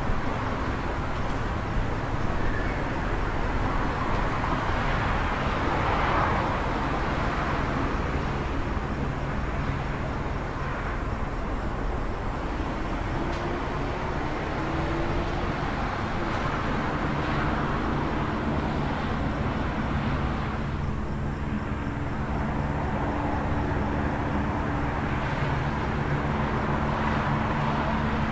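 City street ambience: steady road traffic noise with a low engine hum, swelling as vehicles pass a few times.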